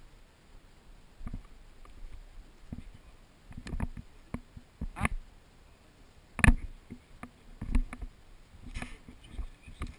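A scattering of irregular knocks and rustles, the loudest a sharp knock about six and a half seconds in, with a softer rustle near the end.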